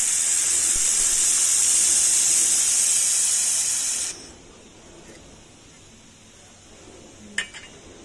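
1500 W fiber laser welder running a weld on 2 mm galvanized pipe: a loud, steady high hiss of the weld and its shielding gas, which cuts off suddenly about four seconds in. A single sharp click follows near the end.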